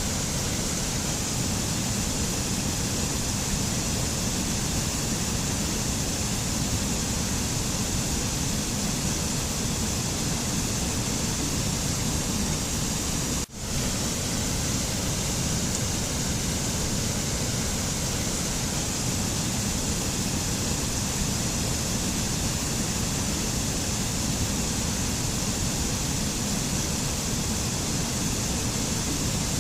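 Steady rushing noise from a mountain nature-sound track: an even hiss over a deep rumble. It drops out sharply for a moment about halfway through.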